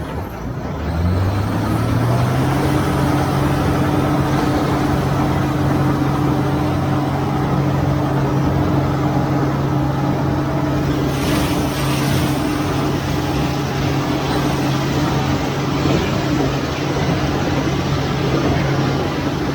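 Tractor engine revving up over the first two seconds, then running steadily at working speed, with a brief rattle about eleven seconds in.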